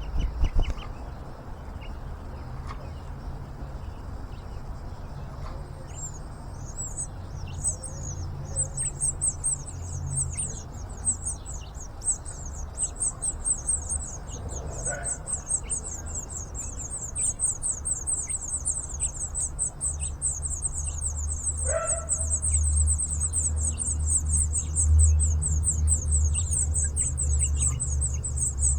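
Nestling birds chirping in a fast, high-pitched, unbroken series that starts about six seconds in, with a couple of lower, louder chirps, over a low rumble.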